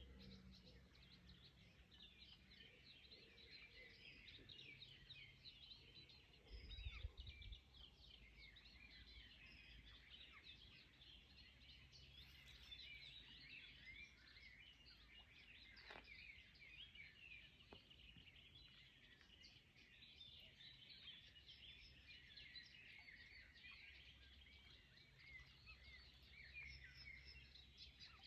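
Faint chorus of many small songbirds, a dense, continuous tangle of overlapping chirps and trills. A low rumble runs underneath and swells briefly about seven seconds in.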